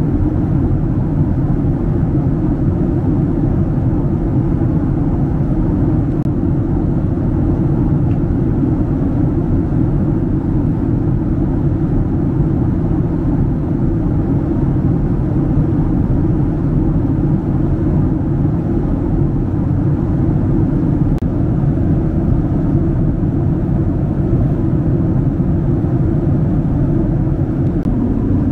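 Steady low cabin rumble inside a Boeing 767-300 airliner, the even drone of its engines and the air around it, unchanging throughout.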